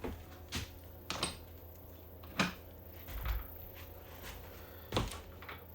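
Scattered knocks and clicks of things being handled and set down in a small room, with a dull thump a little past the middle, over a low steady hum.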